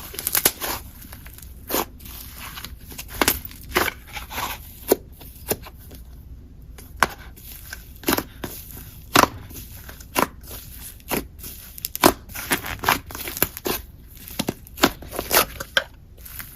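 Slime being squished and played with by hand, giving irregular crackling clicks and pops, several a second.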